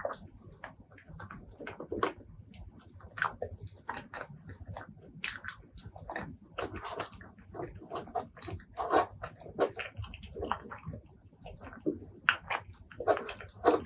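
Close-miked eating of spicy pork leg curry with rice: wet chewing, lip smacks and slurping of the sauce, with irregular short clicks and squelches.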